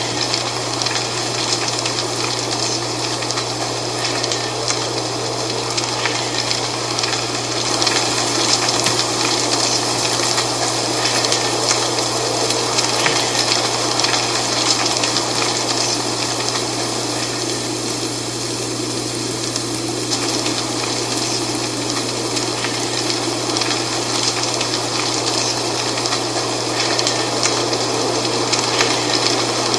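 Dry fall leaves rustling in steady wind: a dense, continuous crackling hiss that swells slightly now and then, over a steady low hum.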